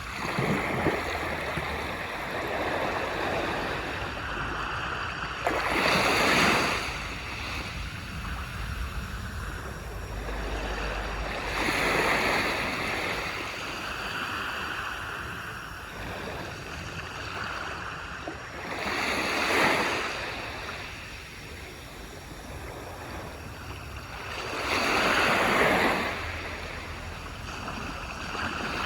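Small waves breaking and washing up a beach, with a steady hiss of surf and a swell about every six or seven seconds as each wave comes in.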